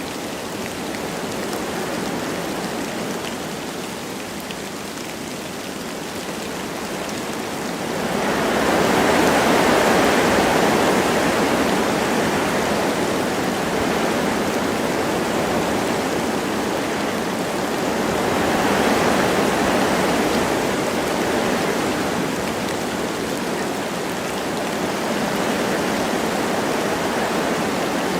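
Wind rushing through forest trees with light rain falling, a steady rushing noise that swells in a strong gust about a third of the way in and again about two thirds in.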